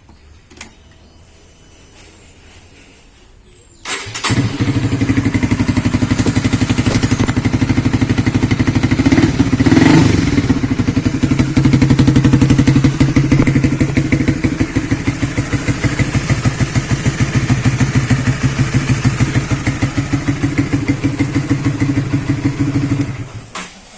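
Honda CB150R StreetFire single-cylinder engine, breathing through a Suzuki Satria FU CKD exhaust, starting about four seconds in and idling with even firing pulses. It revs briefly about ten seconds in, then is switched off shortly before the end.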